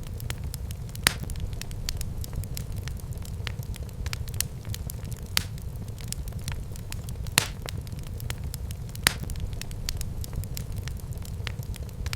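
Wood fire burning in a fireplace, crackling: a steady low rumble of flames with many small crackles and several louder, sharp pops scattered through it.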